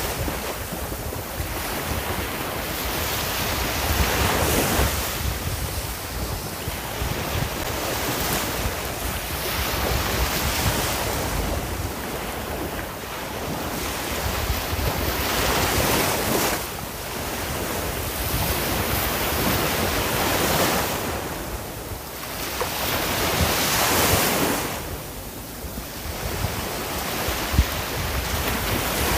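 Sea waves breaking and washing on the shore in a continuous wash of surf that swells and recedes every few seconds, with a low rumble of wind on the microphone.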